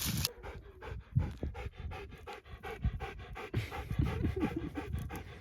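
Dog panting rapidly and evenly, about five breaths a second, with low irregular thumps underneath.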